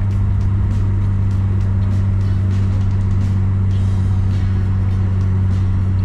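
Car driving at a steady speed: a constant low drone of engine and tyre noise with an unchanging hum, and faint light ticks in the higher range every so often.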